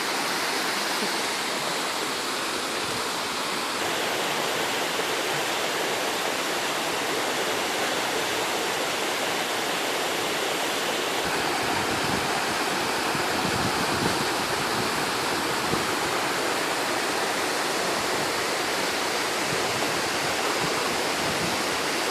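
Waterfall's steady rush of falling water, a dense even noise; from about eleven seconds in it carries more low rumble.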